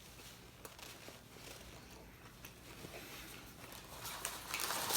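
Faint chewing with small mouth clicks, then about four seconds in a taco's paper wrapper starts crinkling and grows louder.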